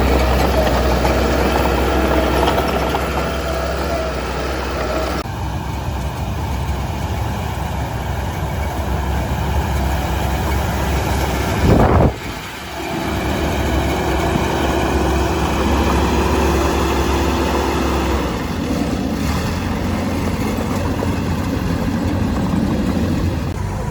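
Heavy diesel construction machinery running steadily with a low engine drone, and a short, loud burst of noise about halfway through.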